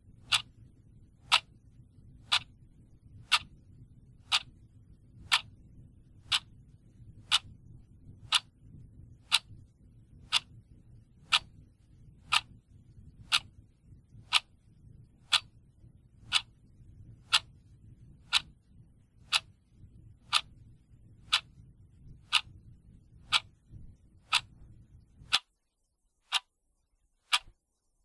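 Clock ticking steadily, about one tick a second, over a faint low background hum that cuts off suddenly near the end.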